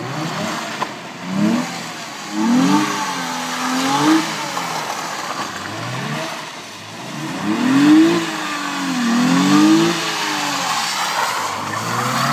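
Twin-turbocharged 3.8-litre V6 of a Hyundai Genesis revving, its pitch climbing and falling in several separate swells.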